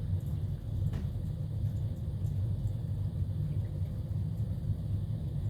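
Steady low rumble, with a faint click about a second in.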